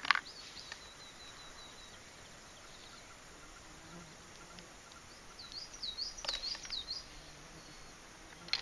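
Small songbirds chirping in a quiet outdoor background: a quick run of notes near the start and a louder burst of chirps about six seconds in. A sharp click comes right at the start, a few softer clicks come with the second burst of chirps, and a loud sharp sound comes at the very end.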